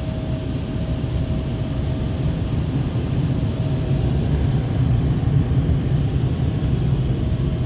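Contour air dryers of an Istobal Flex5 rollover car wash blowing on the car, heard from inside the cabin as a steady, low-heavy rush of air, with a faint steady hum that fades out about halfway through.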